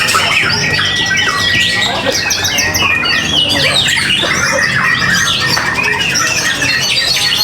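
Many caged songbirds singing at the same time: a dense, continuous tangle of overlapping chirps, trills and whistles from competing contest birds.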